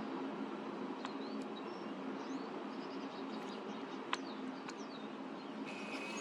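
Small finches (goldfinches and pine siskins) giving short, high chirps over a steady rush of wind noise.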